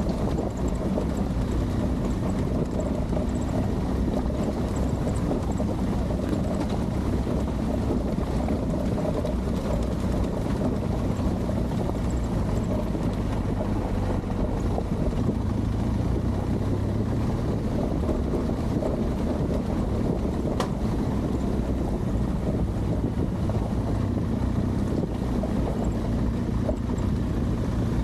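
Adventure motorcycle engine running steadily under way, with wind buffeting the microphone.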